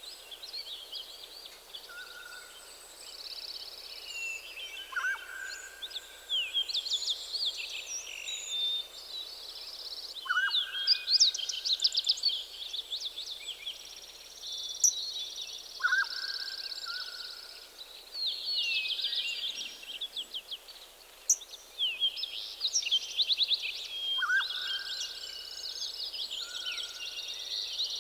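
Several songbirds singing at once in a forest morning chorus: dense, overlapping high chirps and trills. One bird repeats a lower, steady note every few seconds.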